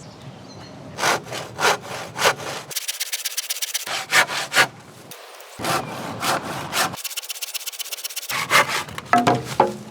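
Saw cutting through old hardwood timber in quick back-and-forth strokes, a few a second. The sawing breaks off and resumes abruptly several times.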